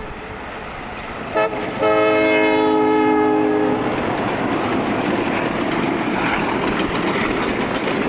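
Alco RS-11 diesel locomotive's air horn blowing for a grade crossing: a short blast a little over a second in, then a long blast of about two seconds. The noise of the train passing follows.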